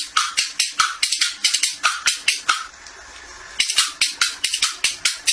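Rhythmic percussion, like a shaker or maraca beat in music, at about four strokes a second. It drops out for about a second midway, then comes back.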